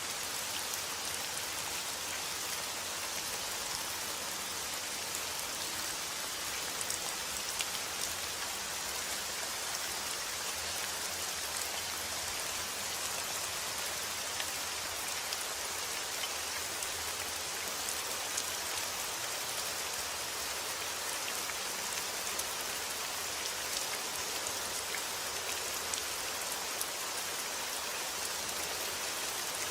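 Steady rainfall, raindrops pattering on a surface with many small individual drips, no thunder.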